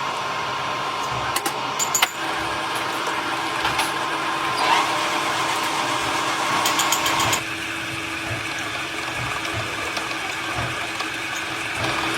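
Industrial machinery running with a steady hum and scattered sharp metallic clicks, with a quick run of ticks near the middle. A higher steady tone cuts off about seven seconds in, leaving a lower hum.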